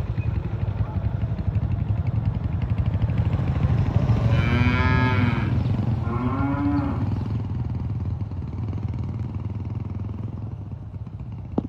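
A cow mooing twice, two calls about four and six seconds in, over a steady low rumble that fades toward the end. A sharp click comes at the very end.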